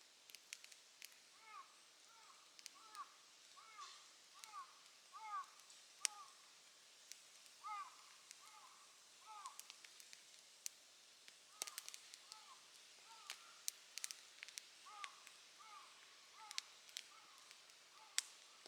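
Campfire crackling faintly with scattered sharp pops, the loudest about six seconds in and again near the end. A bird calls over it in several runs of short, arched, repeated notes.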